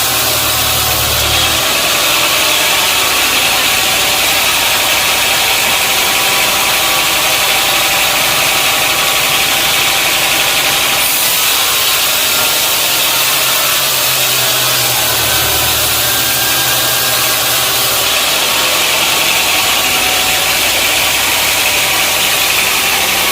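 Sawmill running steadily: engine and saw making a continuous loud mechanical noise, with a deeper hum underneath at the start and again about two-thirds of the way through.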